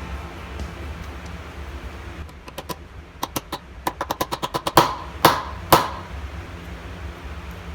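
A quickening run of light, sharp clicks or taps, then three louder knocks with a short ring, over a steady low hum.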